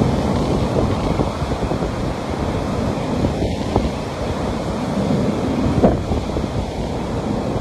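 Sea waves washing onto a beach in a steady surf, with wind rumbling on the microphone.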